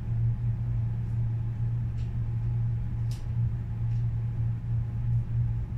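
A steady low hum, like a running machine, with a few faint short ticks over it.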